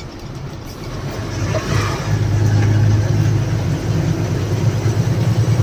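A 12-wheel lorry's diesel engine pulls harder and gets louder over the first two seconds, then runs steadily under load.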